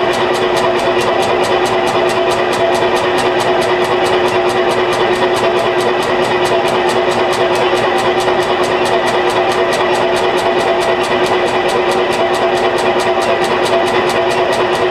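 Electric drill running steadily at a constant speed, a continuous motor hum with a fast, even pulsing.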